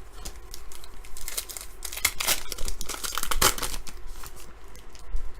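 A trading-card pack wrapper being torn open and crinkled by hand, in irregular crackles with the loudest tearing about two and three and a half seconds in.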